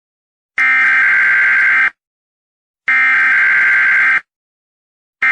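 Harsh electronic buzzer tone sounding in repeated blasts with dead silence between: two long blasts of about a second and a half each, then a short one near the end.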